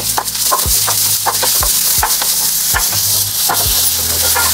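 Chopped onions and chillies sizzling in hot oil in a nonstick frying pan while a wooden spatula stirs them, with a steady hiss and irregular knocks and scrapes of the spatula against the pan.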